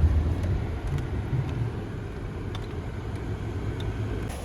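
Car driving off-road, a steady low rumble of engine and tyres with a few faint knocks.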